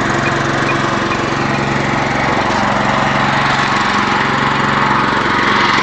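Small engine running steadily on wood gas, driving a generator, with an even pulsing note. It runs noisily, which the owner puts partly down to a leaking exhaust system.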